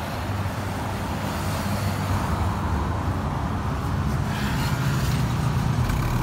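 Ford Mustang 2.3 EcoBoost's turbocharged four-cylinder idling through an aftermarket exhaust: a steady low rumble that grows a little louder.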